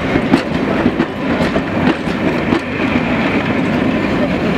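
Passenger coaches rolling past close by: a steady rail rumble with the wheels clattering irregularly on the track.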